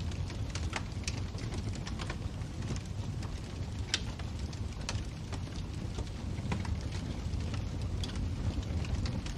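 Fireplace fire crackling: scattered sharp pops and snaps over a steady low rumble, with one louder pop about four seconds in.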